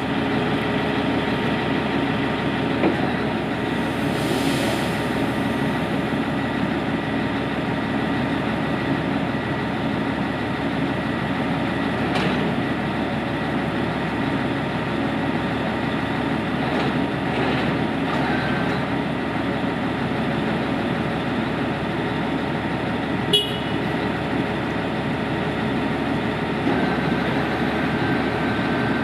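ENR-1000 snow-clearing rail maintenance vehicle's engine running steadily after starting. A sharp click about 12 seconds in, and a louder one about 23 seconds in.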